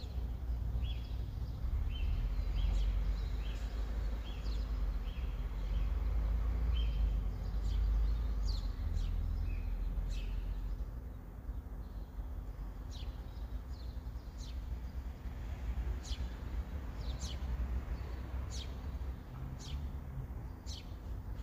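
Small birds calling: short chirps about once a second, then quick high calls sweeping downward, over a steady low rumble that eases off about halfway through.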